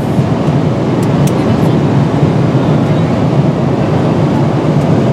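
Steady low rushing cabin noise inside a Boeing 777-300ER airliner in cruise: airflow and jet engine noise heard from a passenger seat, with a few faint clicks about a second in.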